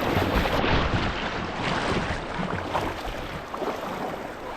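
Creek water rushing and splashing around a kayak, with wind buffeting the microphone: a steady, even wash of noise.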